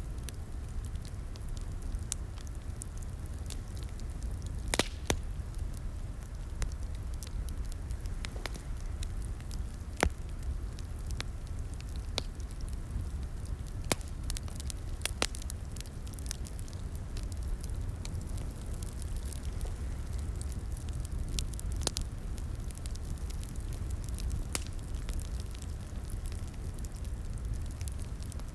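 Wood fire in a fireplace crackling: irregular sharp pops and snaps over a steady low rumble of the flames, with a couple of louder pops about 5 and 10 seconds in.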